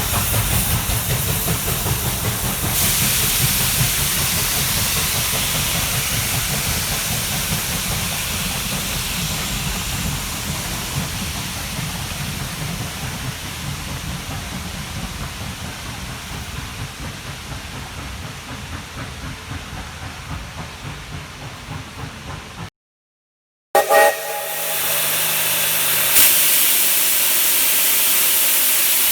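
Steam locomotive working, fast even exhaust beats under a hiss of steam that slowly fade away over about twenty seconds. After a brief drop-out the sound changes to a steady hiss of steam.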